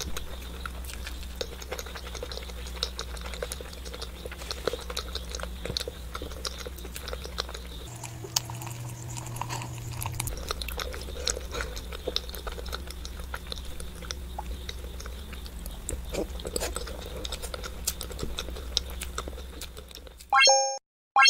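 Close-miked chewing and biting of hard-boiled eggs coated in chili sauce: dense small wet clicks and crackles over a steady low hum. Near the end it cuts to two short pitched pop sound effects.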